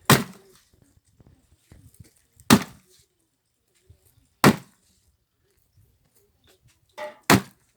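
Axe blows splitting firewood: four sharp chopping strikes about two seconds apart, with a lighter knock just before the last one.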